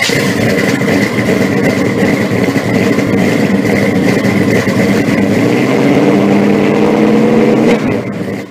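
Car engine running, with a steady high whine over it; its pitch rises a little about six seconds in, and the sound cuts off suddenly near the end.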